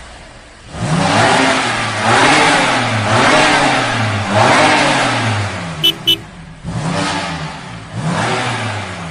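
Vehicle engine revving in repeated surges, about one a second, each rising and then falling in pitch. Two short high beeps come in quick succession midway.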